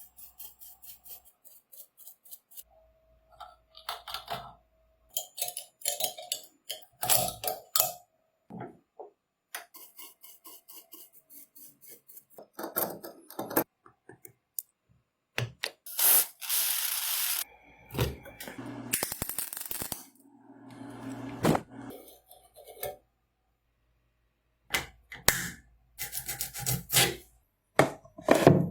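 Hand-tool work on an old screwdriver being restored: a string of short scraping and rubbing strokes, clicks and knocks of metal and tool, broken by brief silences.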